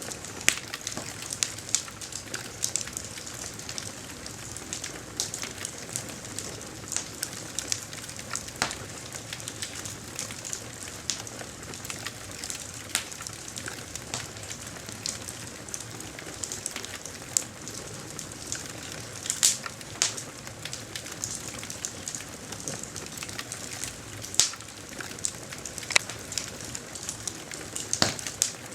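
Campfire crackling: a steady hiss with frequent small pops and snaps, and a few louder pops every several seconds.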